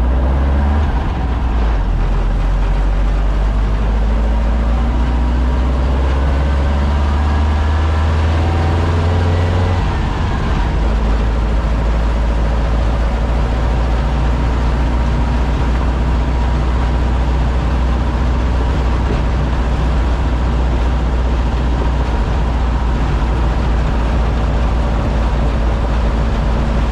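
A VW Baja's 1968cc air-cooled flat-four stroker engine running under way, heard from inside the cabin. The engine note climbs for about ten seconds, changes abruptly, then holds steady at a cruise.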